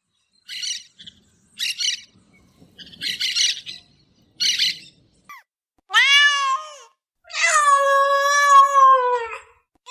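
Domestic cat meowing: four short breathy sounds first, then a meow about six seconds in and a long, drawn-out meow of about two seconds near the end.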